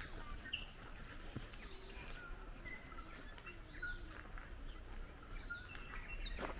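Small birds chirping, with short scattered calls and whistled notes, over faint low outdoor background noise.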